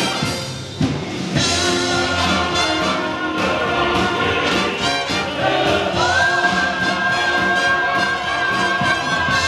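Orchestral accompaniment with brass playing the closing bars of the song, ending on a long high note held from about six seconds in.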